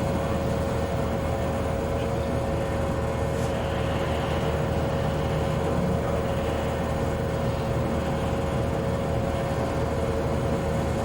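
Bowling alley room tone: a steady low rumble and noise of the hall with a constant hum-like tone.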